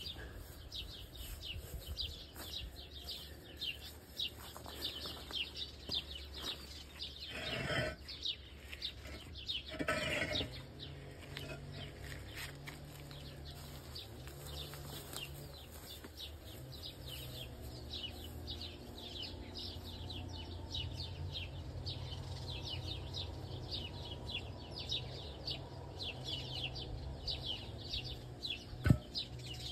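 Small birds chirping rapidly and without pause, many short high calls a second, over a steady low hum. Two brief scraping rushes come about a third of the way in, and a single sharp knock near the end.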